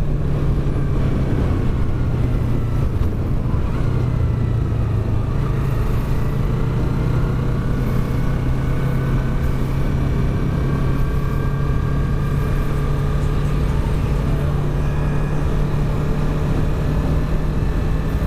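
Yamaha R3's parallel-twin engine running at a steady, even pitch as the motorcycle rolls slowly in traffic, over a steady rush of wind and road noise.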